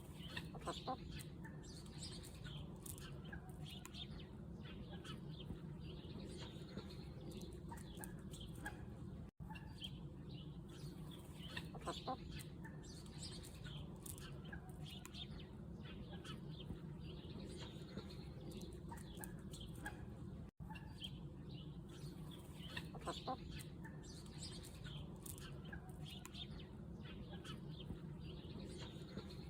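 Chickens clucking, with many short high chirps, over a steady low hum. The sound cuts out for an instant twice.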